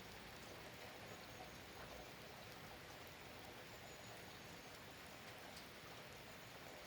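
Faint steady rainfall: an even patter with scattered individual drops ticking.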